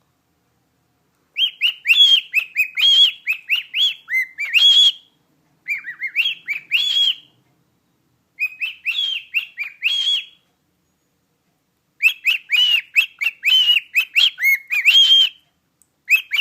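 Pet cockatiel whistling in four bursts of quick, rising-and-falling chirped notes, with short pauses between them.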